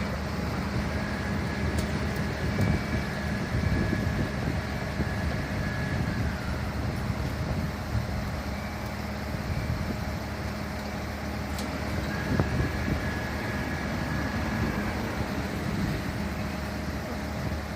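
A fire truck's engine running steadily, with a high steady whine that comes in twice for a few seconds each time and slides away as it fades.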